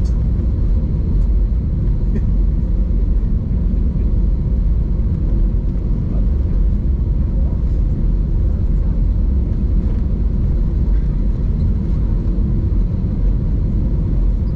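Steady low rumble of an Airbus A320-200's engines and airframe heard inside the passenger cabin while the aircraft taxis after landing.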